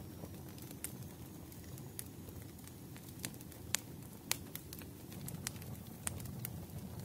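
Wood fire crackling in a fireplace: irregular sharp pops and snaps over a steady low rumble, with a few louder pops around the middle.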